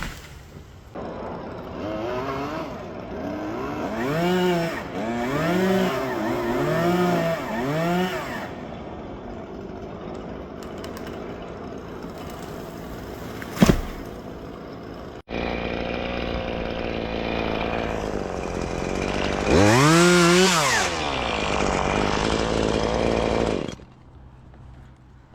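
Chainsaw engine revving in a series of short bursts, its pitch rising and falling each time, with a sharp knock about halfway through. After an abrupt break it runs again and gives one long rev, then cuts off shortly before the end.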